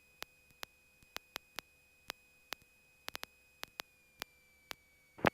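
Faint electrical noise on the cockpit audio line: a thin, steady high whine that dips slightly in pitch about four seconds in, with sharp, irregular clicks about twice a second.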